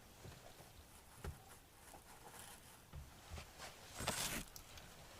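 Faint, scattered knocks and rustles of things being handled, with a slightly louder cluster about four seconds in.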